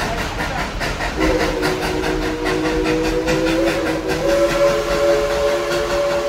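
Steam locomotive's chime whistle blowing a long, held multi-note chord that starts about a second in and shifts up in pitch a little after four seconds. Under it, the train runs with a steady, regular rhythmic beat.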